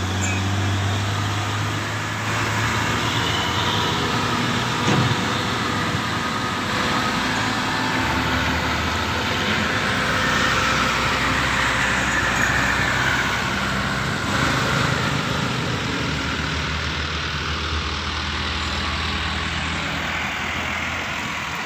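Diesel trucks driving past on a hill road: a steady low engine drone with tyre and traffic noise, the engine note dropping lower about eight seconds in.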